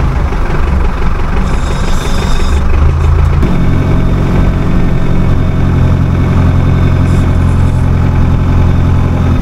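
Tractor engine running steadily at low revs; its note shifts and then holds even about three and a half seconds in, with a brief hiss around two seconds in.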